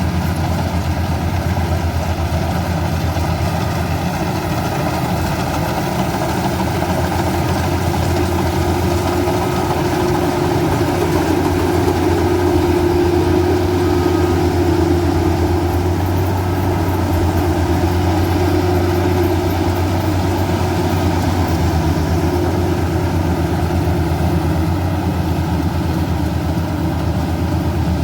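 Combine harvester's diesel engine running steadily while it harvests rice, with a higher steady hum over the drone that grows a little louder midway.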